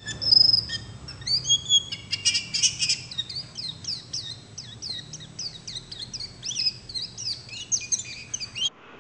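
Birdsong: several small birds chirping and twittering together, many quick overlapping chirps, most sweeping downward in pitch, stopping just before the end.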